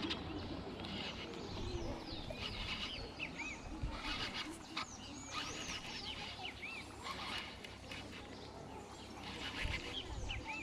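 Birds chirping: clusters of short, looping whistled notes that come and go, over a low steady rumble.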